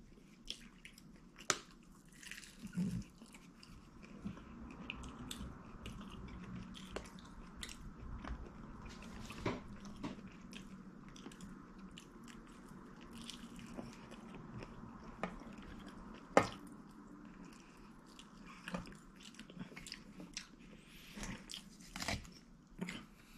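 A person eating fried chicken up close: biting and chewing, with scattered crunches and sharp clicks.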